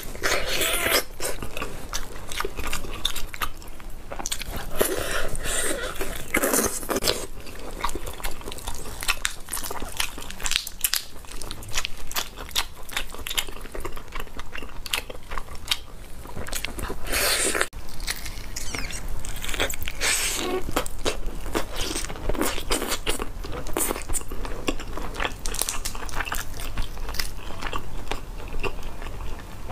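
Close-miked eating sounds of biting and chewing chili-coated roast chicken, with many sharp, crunchy clicks.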